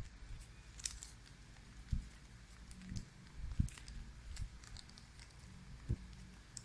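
Sheet of origami paper being folded and creased by hand: faint crinkles and clicks, with a few soft thumps.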